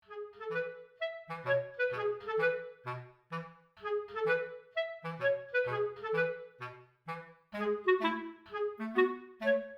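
Background music: a light, bouncy tune of short staccato woodwind notes, clarinet-like, over a plucked bass line, starting abruptly.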